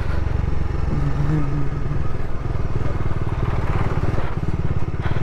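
Bajaj Dominar 400's single-cylinder engine running steadily while riding, a fast, even engine pulse.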